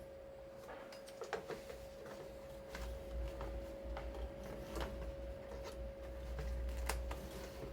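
Toyota Crown GXS12's original heater blower motor running with a steady whine and irregular ticking and clicking, the abnormal noise of an age-worn factory blower. A low rumble builds up about halfway through.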